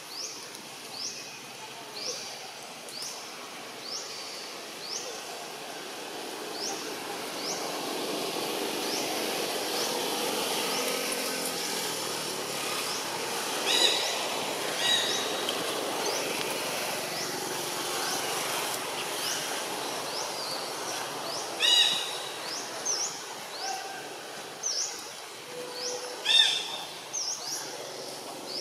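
Outdoor forest ambience: a bird repeats a short high chirp about once a second, and a few louder calls break in near the middle and toward the end, over a steady background hiss.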